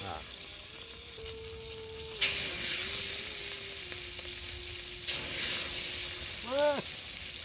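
Meat of a white-breasted waterhen (ruak-ruak) frying in hot oil in a small pan, a dense steady sizzle. The sizzle surges abruptly twice, about two seconds and five seconds in.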